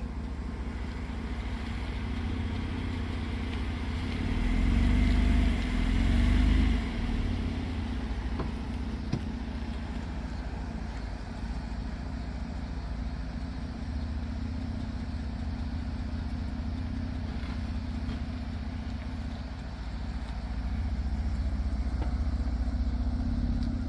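2011 Ford Edge's 3.7 Duratec V6, with modified intake and exhaust, running at low speed with a steady low exhaust rumble that swells louder about 4 seconds in and again near the end.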